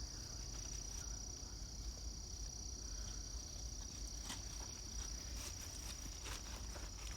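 Steady high-pitched chorus of insects singing, a constant shrill buzz with no break, over a low rumble, with a faint click or two.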